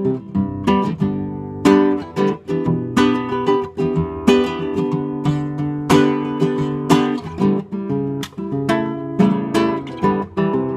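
Acoustic guitar strummed in a steady rhythm of chords, with no voice yet: the instrumental introduction to a song.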